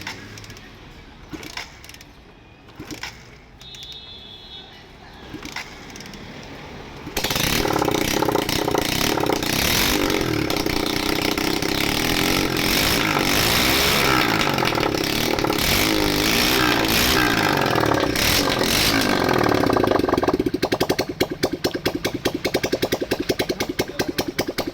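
A Bajaj V12 motorcycle's freshly refitted single-cylinder engine starts about seven seconds in, after a few light knocks. It runs loudly, revving up and down, then settles near the end into a quieter, evenly pulsing idle. This is a test run to check whether the new gasket has stopped an oil leak.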